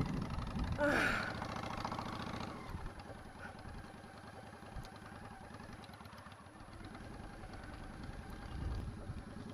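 Motorcycle engine running at low speed with a steady firing rhythm, briefly louder about a second in.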